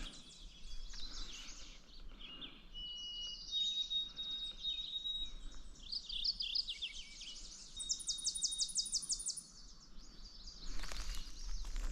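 Several songbirds singing together in a spring chorus: thin high whistled notes overlapping, with a fast trill of repeated notes lasting about a second and a half in the second half. Near the end comes a burst of rustling noise.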